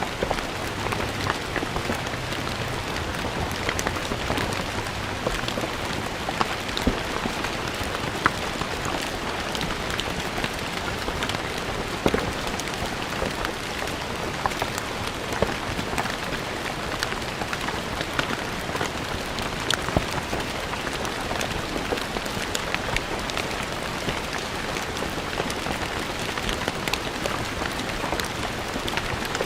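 Steady rain falling on a stone floor, a constant hiss dotted with many sharp drop splashes.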